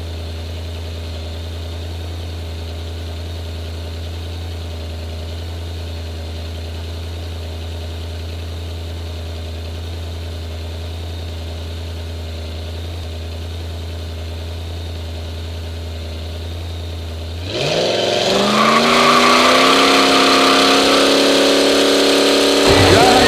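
An engine idling with a steady low rumble; about seventeen seconds in, a louder engine sound rises quickly in pitch, then holds a high steady note.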